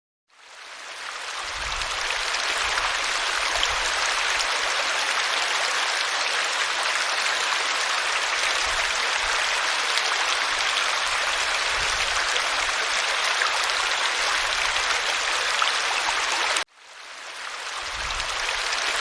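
Steady rushing of running water, like a stream. It fades in at the start, cuts off abruptly near the end, then fades back in.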